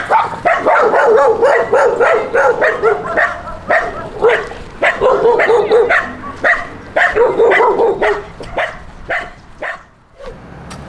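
A dog yipping and whining in a rapid string of short, wavering calls that trail off near the end.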